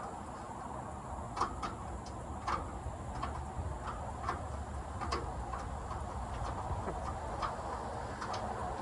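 Light, irregular clicks and taps of hand tools on metal, about one or two a second, over a steady low hum.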